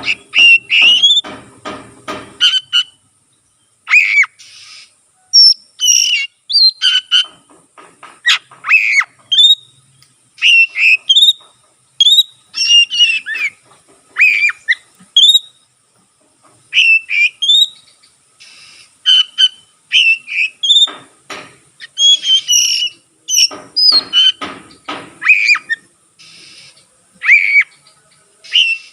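Oriental magpie-robin (kacer) in vigorous full song: a fast run of short, loud whistled phrases, some sweeping up or down, broken by brief pauses. A rasping burst comes in the first couple of seconds.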